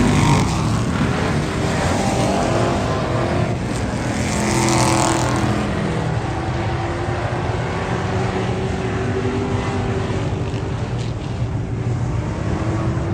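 Several race car engines running at speed on an oval track, their pitches rising and falling as the cars go by, with one louder pass about four to five seconds in.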